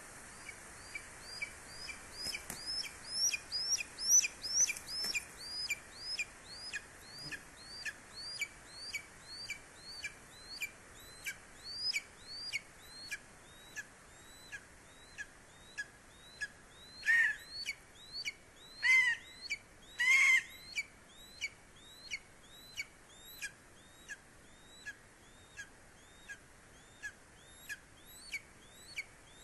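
Greater spotted eagle calling: a long, even series of short, high call notes at about two a second, with three louder, lower-pitched calls about two-thirds of the way through.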